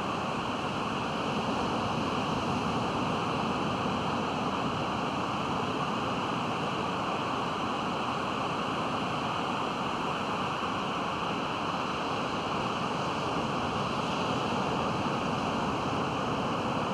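Pacific Ocean surf: a steady wash of breaking waves with no distinct individual break.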